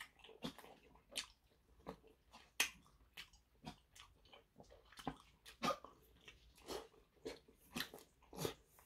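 Close-up chewing and biting of a chili-sauce chicken drumstick: quiet, irregular wet mouth clicks and chews, a few each second.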